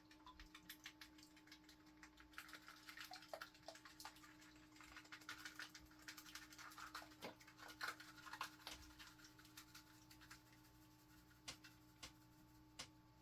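Faint, scattered clicks and light scraping of a small scoop working in a container of powdered oxalic acid as the powder is scooped and sprinkled into a tub of water, over a low steady hum.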